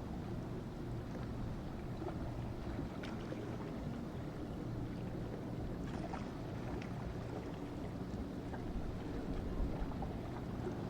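Boat engine running steadily over the water, with wind noise on the microphone.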